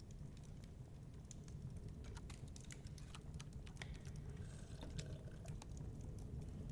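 Wood fire crackling in a fireplace: irregular sharp pops and snaps over a low, steady rumble of storm wind.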